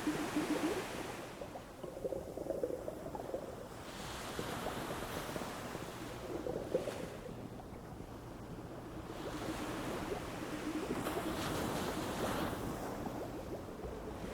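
Ocean surf on a beach: waves breaking and washing in, the rushing swelling and falling every few seconds.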